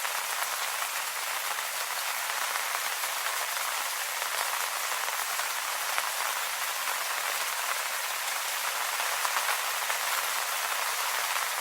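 Steady rain pattering on leaves, an even, dense hiss of many small drops with no let-up.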